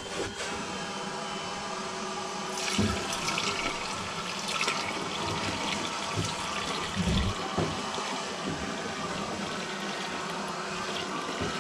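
Steady spray of liquid hitting an air-conditioner coil during coil cleaning, turning louder and hissier a few seconds in, with a few soft low thumps.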